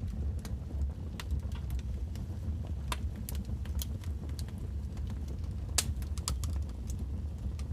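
Wood fire burning: irregular sharp crackles and pops from the burning logs over a steady low rumble, with one louder pop about six seconds in.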